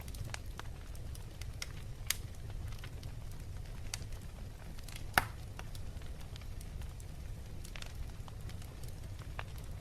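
Wood fire in a fireplace crackling over a steady low rumble, with scattered sharp snaps and one louder pop about halfway through.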